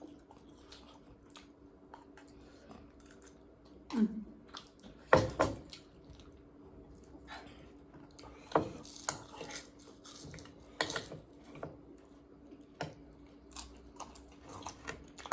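Eating at a table: scattered clicks and knocks of utensils against dishes, with chewing, the loudest knock a little after five seconds in. A brief low hum of a voice comes about four seconds in.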